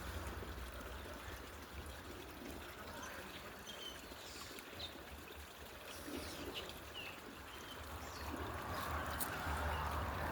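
Running water trickling and splashing steadily, a little louder near the end, with a few short bird chirps over it.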